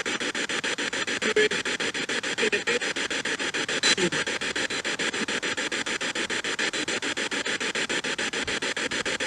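Spirit box sweeping through radio stations: hissing static chopped into rapid even pulses, about ten a second, with brief snatches of radio voices breaking through a few times.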